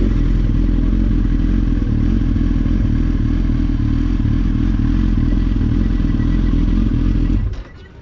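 Motorcycle engine running at low speed, then switched off while the bike is still rolling in gear, the sound cutting out suddenly near the end.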